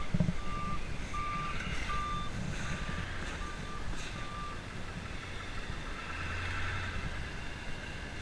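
Reversing alarm of a snow-clearing vehicle beeping at a steady pace, about one beep a second, stopping about four and a half seconds in, over the low rumble of its engine.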